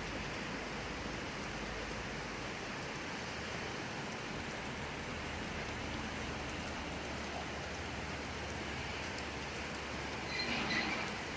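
Steady rain falling, an even hiss, with a brief louder sound near the end.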